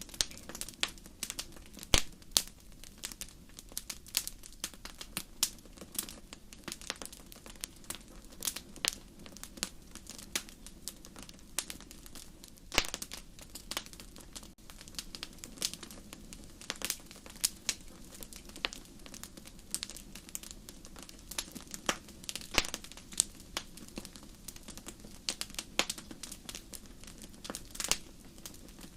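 Wood fire burning in a fireplace: irregular crackles and sharp pops, several a second, over a low steady rush of the flames.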